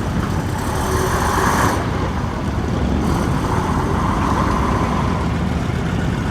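A motor vehicle engine running, a steady low rumble whose higher noise swells about a second in and again around four seconds in.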